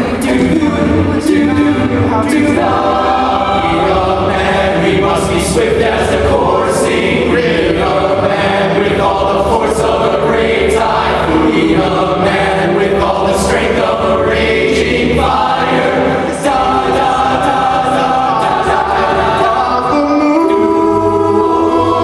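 A cappella vocal group singing in close harmony: several voices holding and moving chords over a sung bass line.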